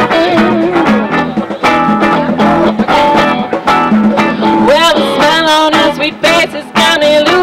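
Live band music: an instrumental stretch of a blues-rock song between sung lines, with guitar to the fore and a steady beat.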